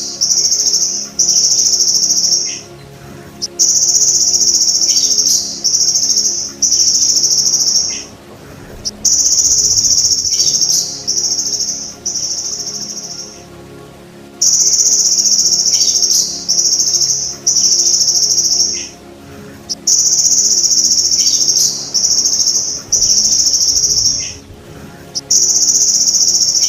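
Belalang emas ('golden grasshopper') insect calling: loud, high-pitched buzzes of about a second each, coming in sets of three with short breaks between them, the sets repeating every five or six seconds.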